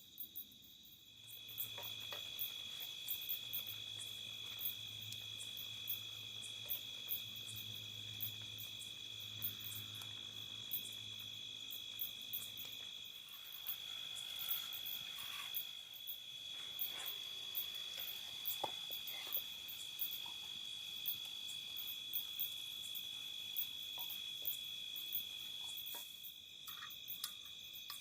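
Crickets chirping in a steady, continuous high trill, with scattered short clicks and a faint low hum through about the first half.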